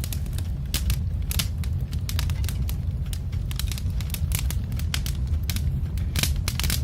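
Log fire crackling: irregular sharp pops and snaps over a steady low rumble.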